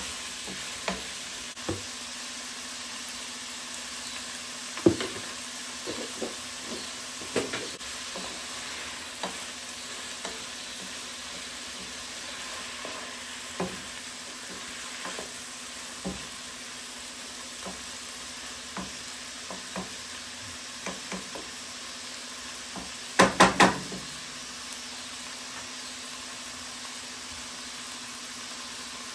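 Food sizzling steadily as it fries in a pan while being stirred, with scattered clicks and knocks. Three quick loud knocks come about three-quarters of the way through.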